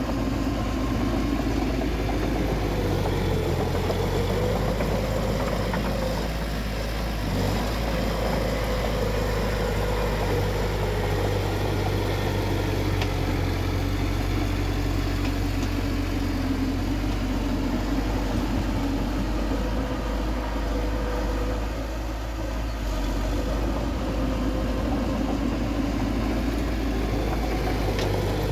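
Heavy earthmoving machine's diesel engine running steadily, its pitch drifting slightly up and down, briefly a little quieter about 21 seconds in.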